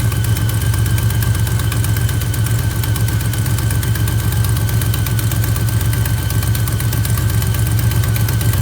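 A 1976 Plymouth Gran Fury's V8 idling steadily, with a fast, light tick running through it and a thin steady whine above. The owner doubts the tick is an exhaust leak and suspects the AC compressor.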